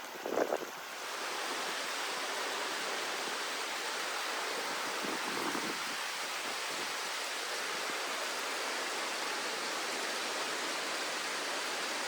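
Steady rush of creek water flowing over rock in the Left Fork of North Creek, growing louder about a second in. A few short sounds come just before that.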